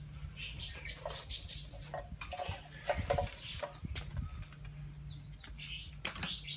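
Birds calling: many quick, high, falling chirps, with a few sharp knocks in between.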